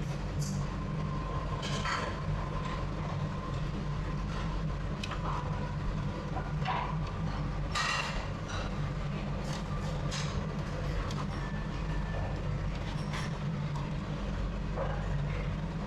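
Restaurant ambience: a steady low mechanical rumble with scattered light clinks of dishes and utensils.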